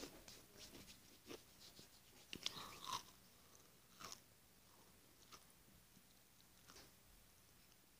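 Faint crunching and chewing of a mouthful of Pringles potato crisps: scattered short crackles, loudest in a cluster about two and a half to three seconds in.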